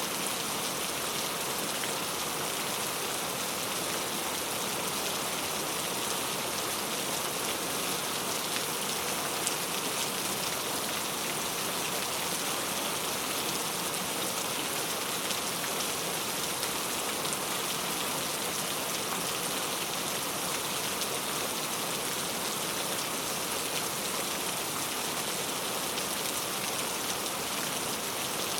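Steady rain falling, an even continuous patter and hiss with no change in strength.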